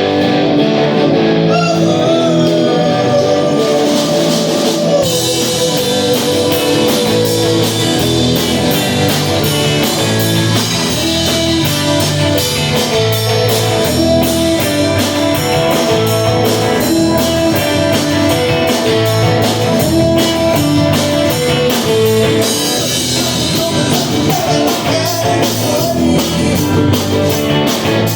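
Live rock band playing an instrumental passage: an electric guitar riff, with drums and cymbals coming in about five seconds in.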